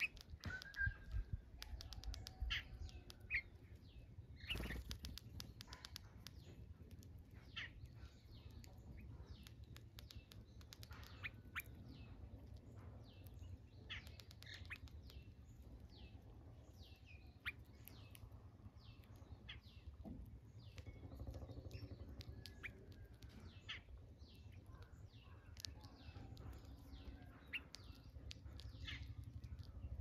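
Small birds chirping faintly, with many short, quick notes scattered throughout over a low steady rumble.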